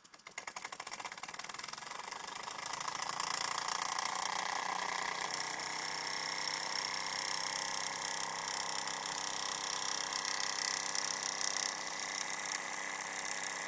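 Ernst Plank vertical live-steam toy engine running. Rapid beats start at once, quicken and grow louder over the first few seconds, then settle into a steady fast whir.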